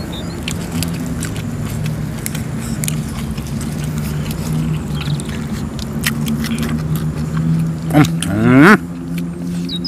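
A person chewing and eating, with many small crunchy clicks, over a steady low hum. About eight seconds in, a short loud rising vocal sound.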